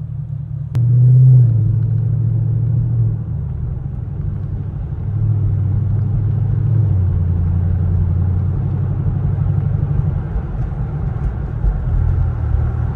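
Deep, loud rumble of a Camaro SS 6.2-litre V8 with its mufflers deleted, heard from inside the cabin. After a short click just under a second in, the engine note jumps louder as throttle comes on, then rises and falls in pitch as the car is driven.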